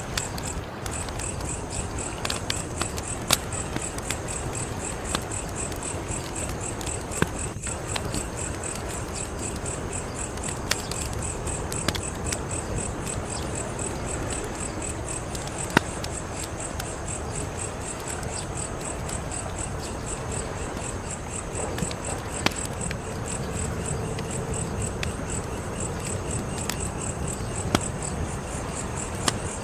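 Wood fire crackling, with scattered sharp pops every second or two, the loudest about halfway through. Behind it runs a steady, high, pulsing chirping of insects.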